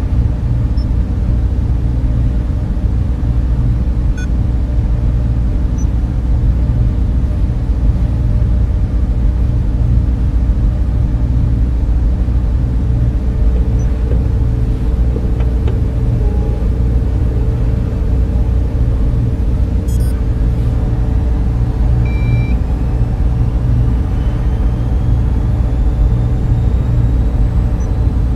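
Server room fans and equipment running with a steady low drone and hum. A faint rising whine comes in during the second half.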